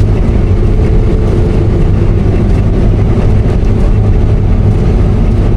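Combine harvester running steadily under load while cutting wheat, a constant loud low drone with a steady hum above it.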